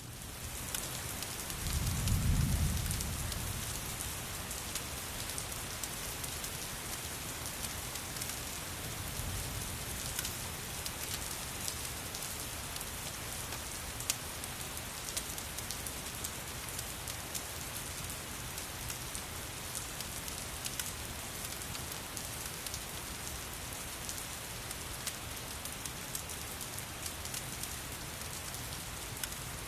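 Steady rain falling on a surface, with scattered sharp ticks and a short low rumble about two seconds in.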